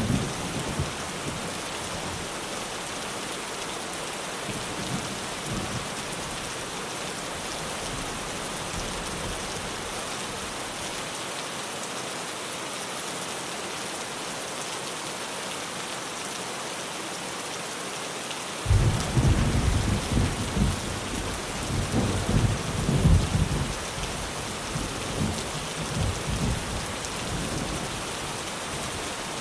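Rain drumming steadily on a tin roof, an even hiss. About two-thirds of the way through, a roll of thunder breaks in suddenly and rumbles in surges for several seconds before fading back under the rain.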